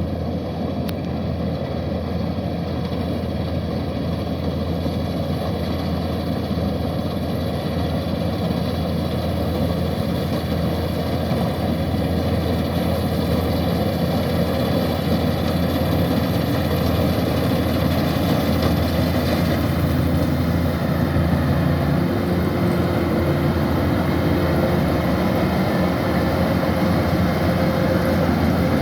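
Kubota combine harvester's diesel engine running steadily, slowly growing louder.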